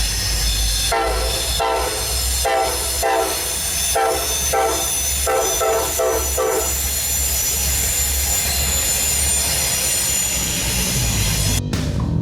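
Diesel locomotive horn sounding a run of about eight short blasts over a steady rumble and hiss. The blasts stop about two-thirds of the way through while the rumble and hiss run on.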